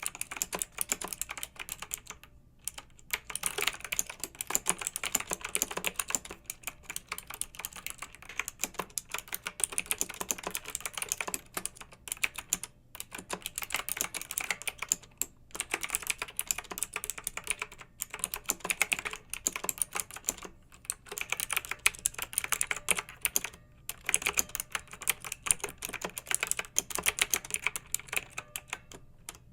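Clicky mechanical keyboard being typed on quickly in steady runs of keystrokes, with brief pauses every few seconds.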